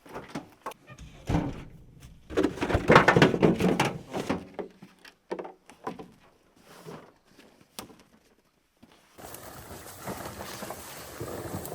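Hunting gear being unloaded from a pickup truck: a run of knocks, thuds and clatters, loudest a few seconds in. About nine seconds in it gives way to a steady rush of wind noise.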